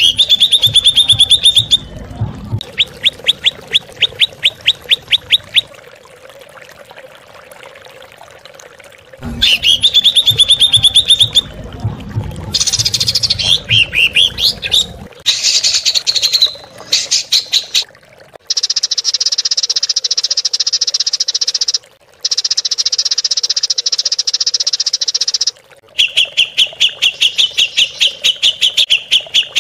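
Songbird calls from a masteran recording: rapid trills of repeated high notes and chattering phrases, with a long steady high buzzing stretch in the middle.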